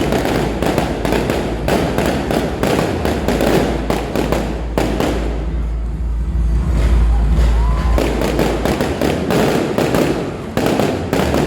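Fireworks going off in quick succession: many sharp pops and crackles over a deep rumbling boom. The crackling thins out for a few seconds midway, while the low rumble is at its strongest, then picks up again.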